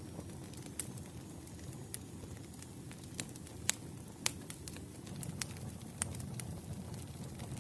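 Firewood burning in a campfire: a steady low rush of flame with sharp crackling pops from the logs, about eight in all, the loudest a little before the middle.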